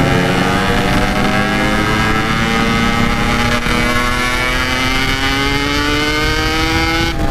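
Yamaha RX-King two-stroke single-cylinder engine, fitted with a packed standard-style exhaust, pulling under load with its pitch climbing steadily, then breaking off briefly near the end.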